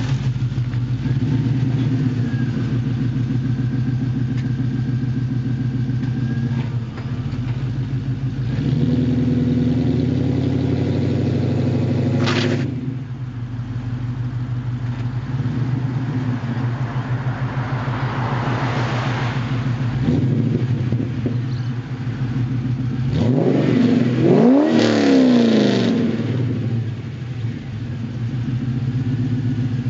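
Holden VY Commodore SS 5.7-litre V8 idling through a performance exhaust of 4-into-1 Pacemaker extractors, twin high-flow cats and 2.5-inch stainless pipes. It is revved about nine seconds in and blipped up and back down again around twenty-four seconds in.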